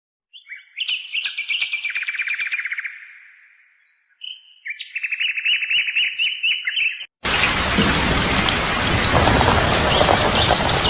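A songbird singing two trilled phrases with a short pause between them, then a sudden cut about seven seconds in to a loud steady hiss like rain or rushing water, with birds chirping faintly over it.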